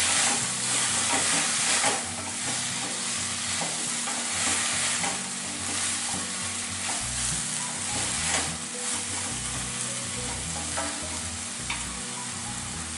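Sliced onions, tomatoes and coriander sizzling in oil in a kadai as they are stirred with a spatula, which scrapes and knocks against the pan, busiest in the first couple of seconds. The tomatoes are being fried until they turn soft.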